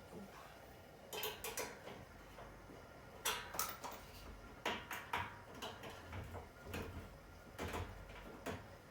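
Copper refrigerant tubing and metal tools being handled as a pipe is set into its joint before brazing: a scatter of short clicks and clinks, about eight, with the sharpest a little past the middle.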